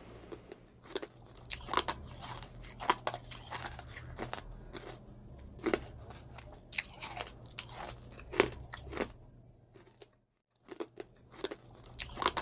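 Close-miked eating: a person biting and chewing crunchy food, with irregular sharp crunches, broken by a brief gap about ten seconds in.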